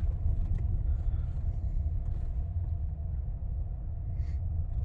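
Steady low rumble of a car heard from inside the cabin while driving.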